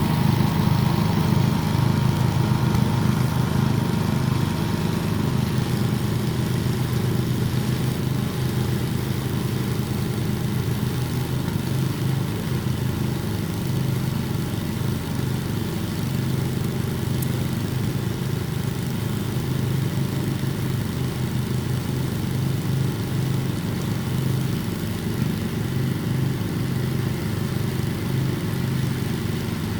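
The small gas engine of a garden tiller running steadily while tilling compost into the garden soil.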